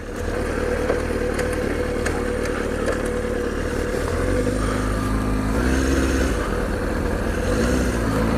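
Motorcycle engine running at low revs in traffic, a steady drone whose pitch steps up slightly about halfway through and again near the end.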